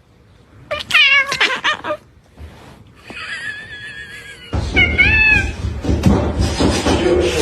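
A cat meowing three times: a wavering call about a second in, a long, steady one around three seconds in, and a shorter one about five seconds in. A rough noise runs under the second half.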